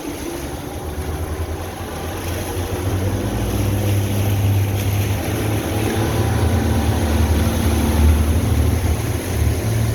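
A boat's motor running with a steady low rumble, growing louder about three seconds in.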